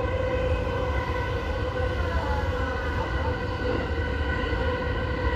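Commuter electric train running at a steady speed: an even whine of the traction motors over the rumble of wheels on the rails. The Keihin-Tohoku Line train is an E233-series EMU.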